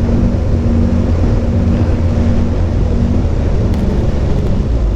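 Kawasaki Ninja ZX14R's inline-four engine running at a steady cruising pace, with wind rushing over the onboard microphone.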